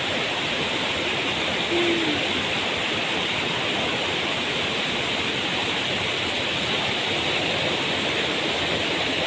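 Waterfall with its water rushing steadily, an even, unbroken wash of noise.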